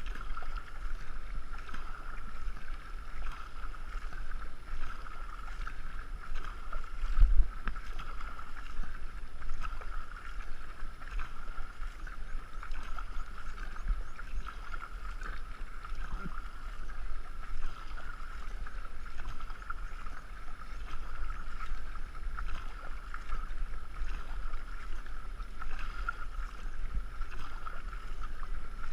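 Rushing river water and wind rumble heard from a moving racing canoe through a GoPro in its waterproof housing, steady throughout, with one loud knock about seven seconds in.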